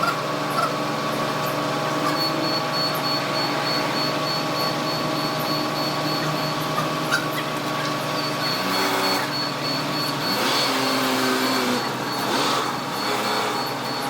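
A machine running steadily with a hum of several fixed tones, joined about two seconds in by a thin high whine, with shifting tones and a few noisy bursts in the second half.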